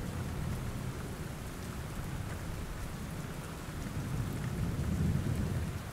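Steady rain falling, with a low roll of thunder that swells about four seconds in and fades again.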